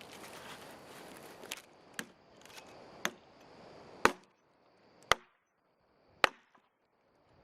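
Wood being chopped: about six sharp blows roughly a second apart, the three later ones the loudest.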